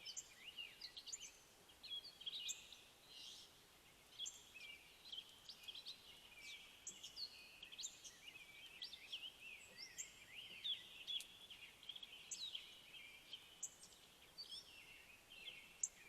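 Faint chorus of songbirds: many short chirps and quick rising and falling calls, overlapping.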